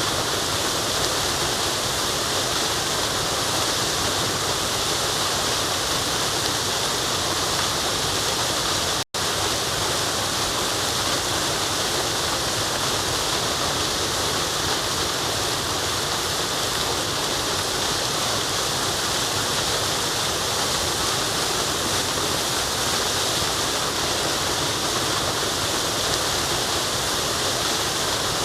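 Waterfall rushing steadily with a dense, hissing wash of water noise, cutting out for an instant about nine seconds in.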